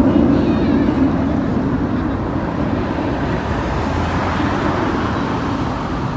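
A steady roar of engine noise, loudest about a second in and slowly easing off.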